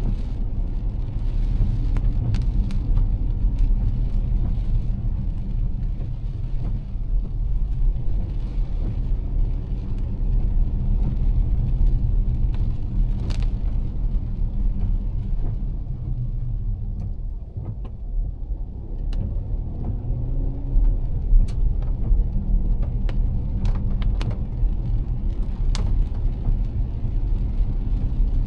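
Car driving in heavy rain, heard from inside: a steady low engine and road rumble under the hiss of wet tyres and rain, with scattered sharp ticks. The rumble eases briefly about halfway through, then picks up again.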